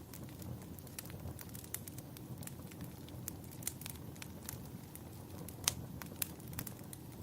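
Wood fire crackling in a fireplace: irregular sharp pops and snaps over a low steady rumble of the flames, with one louder snap near the end.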